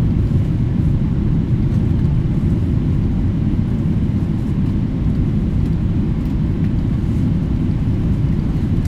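Boeing 777-300ER with GE90-115B engines, a steady low rumble that holds even with no spool-up or change.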